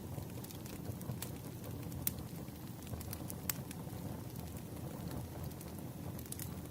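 Wood fire crackling: scattered, irregular sharp pops over a low, steady rumble.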